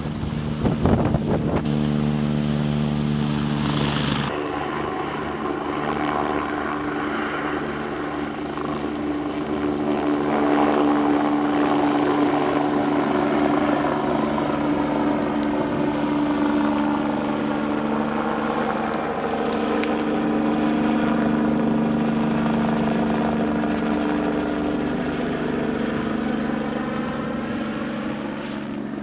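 Helicopter engine and rotors running steadily, with an abrupt change in the sound about four seconds in; afterwards its tones drift slowly in pitch.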